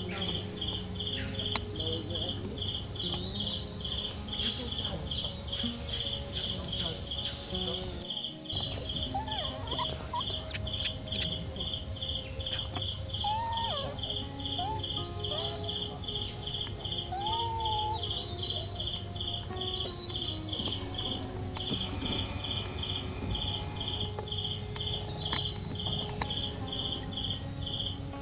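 Insect chorus of crickets or cicadas: a steady pulsing chirp about three times a second over a continuous high-pitched whine, with a few faint short chirping calls. Three sharp loud clicks in quick succession about ten seconds in.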